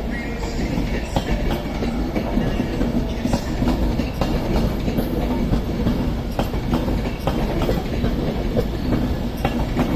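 Class 390 Pendolino electric train running past, its wheels clattering over rail joints and pointwork over a steady low rumble.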